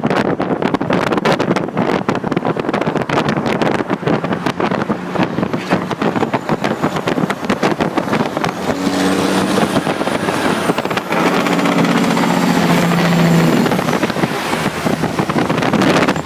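Straight-piped Caterpillar 3406B diesel in a Kenworth W900, jake braking: a loud, rapid rattle of exhaust pops. About halfway through it changes to a steadier engine note with a high turbo whine, and the pitch steps up and down as the truck changes speed.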